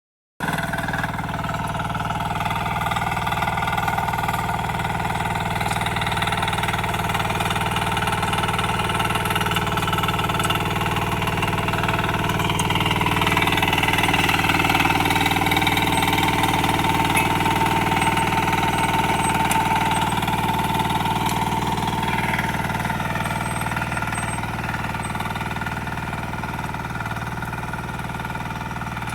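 Diesel engine of a power weeder with a rear rotary tiller, running steadily. It gets a little louder around the middle and eases off slightly toward the end.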